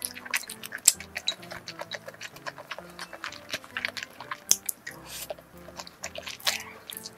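Close-up eating sounds: wet chewing and slurping of stir-fried instant noodles, full of sharp little mouth clicks, over soft background music with held low notes.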